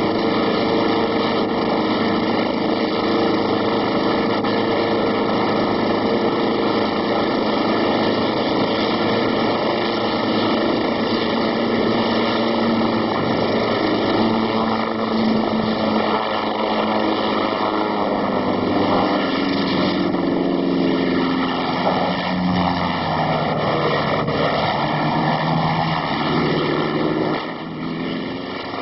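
Helicopter engine and rotor running steadily, its pitch wavering and shifting lower from about two-thirds of the way through.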